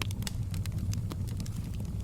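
Wood fire burning in a fireplace: a steady low rumble of the flames with frequent small, sharp crackles and pops.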